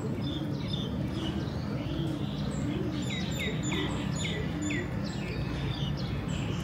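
Small birds chirping, with a quick run of about five falling chirps in the middle, over a steady low rumble.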